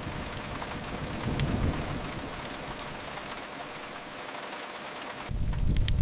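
Steady rain hiss with a few sharp fireplace crackles, over a deep low rumble that fades away in the middle and comes back abruptly about five seconds in.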